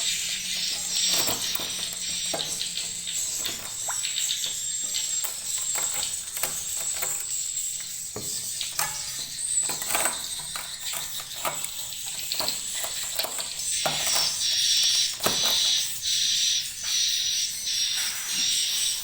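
A flock of edible-nest swiftlets calling inside a swiftlet house: dense high-pitched twittering mixed with rapid clicks, growing busier and louder in the last few seconds.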